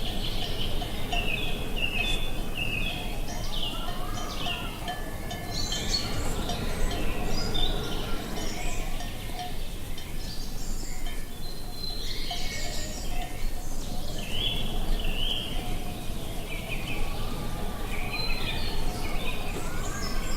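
Many small birds chirping and trilling over a steady rush of wind, with two slower arching calls lower down, about four seconds in and near the end.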